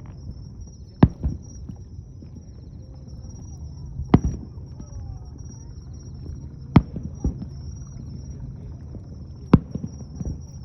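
Aerial fireworks shells bursting: four sharp bangs, one about every two and a half to three seconds, each followed by a fainter second report, over a steady low rumble.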